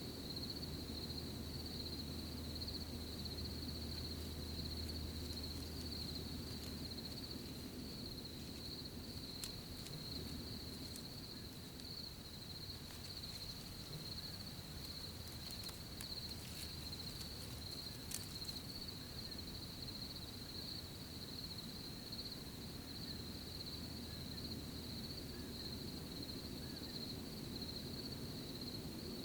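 Crickets chirping in a steady, unbroken chorus over a low rumble. A few faint ticks or rustles come in around the middle.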